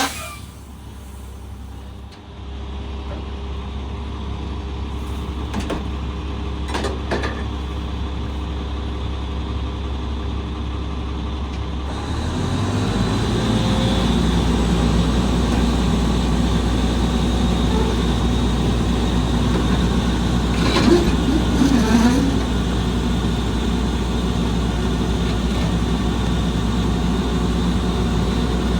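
Volvo Xpeditor garbage truck's diesel engine running steadily, growing louder about twelve seconds in, with a few brief knocks and clatters.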